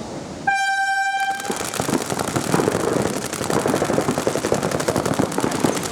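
A start horn sounds once for under a second, then many paintball markers open fire at once, a dense, rapid crackle of shots.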